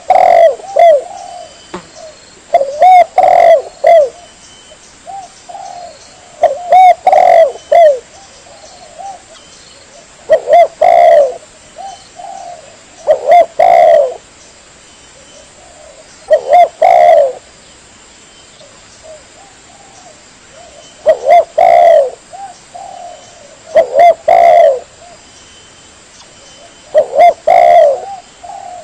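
Spotted dove (tekukur) cooing: the same short phrase of several coos repeats about every three and a half seconds, eight or nine times. It is a lure call for drawing in wild doves.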